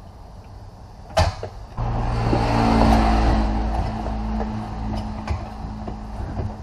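A sharp click, then a Ford Windstar's 3.8L Essex V6 engine starts, runs up loud and settles into a steady idle.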